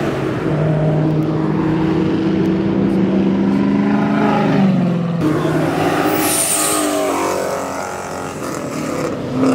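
Car engine revving and held at a steady high pitch for about four seconds, then changing pitch, with a brief hiss about six seconds in.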